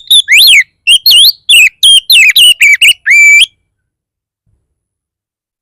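Oriental magpie-robin (kacer) singing a fast, aggressive string of loud whistled notes, each sweeping up or down, the kind of fierce song used to provoke other magpie-robins into answering. The song breaks off about three and a half seconds in.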